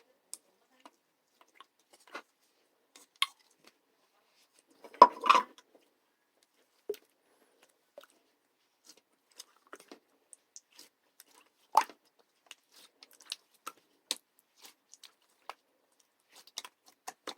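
Scattered small clicks and taps, with a louder crackling cluster about five seconds in and a sharp knock near the twelve-second mark.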